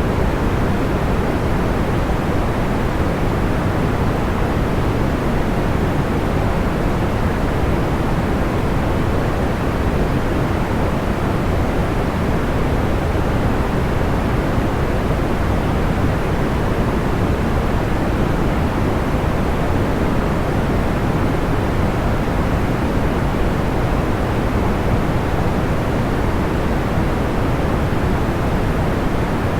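Steady, soft white noise, heavy in the low end and dull in the highs, unchanging throughout, with no distinct crackles or pops standing out.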